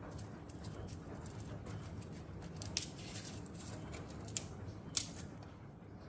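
A scatter of sharp, irregular clicks and snips, the loudest about three, four and a half and five seconds in, over a low steady hum.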